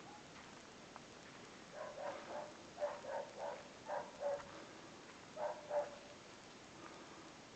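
Dog barking in short bouts, about a dozen barks in four runs over a few seconds.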